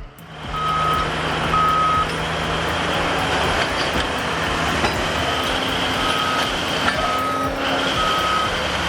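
Heavy equipment's reversing alarm beeping at a steady pitch, about once a second, with a pause of a few seconds in the middle. Underneath, diesel engine noise from the working machines runs throughout.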